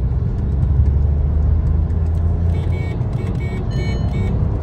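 Skoda Slavia engine pulling hard in third gear under acceleration, heard from inside the cabin with road rumble. About two and a half seconds in, a run of short high chimes sounds: the car's overspeed warning that 80 km/h has been exceeded.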